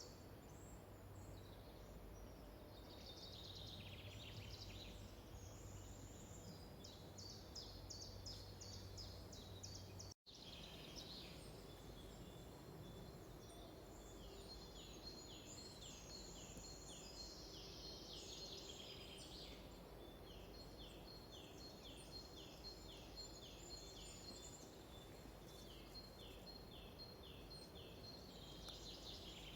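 Faint forest ambience with small birds singing: quick series of high notes, then a long run of short falling whistled notes repeated about twice a second, over a soft steady hiss. The sound drops out completely for a split second about ten seconds in.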